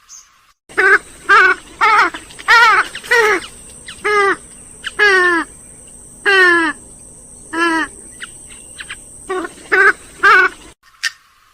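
Grey-headed swamphen giving a series of about a dozen loud, nasal calls, each sliding downward in pitch, in uneven bursts with a gap in the middle.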